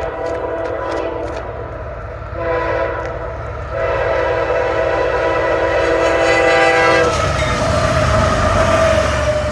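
A train's multi-tone air horn sounds at a road crossing: a short blast, then a long one that stops about seven seconds in. The train then goes by loudly, rumbling, with wheel clatter.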